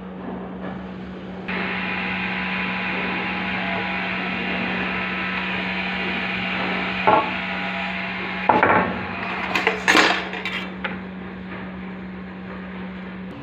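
Carpentry work on wood: several sharp knocks and taps, clustered between about seven and eleven seconds in, over a steady hum that grows louder about a second and a half in.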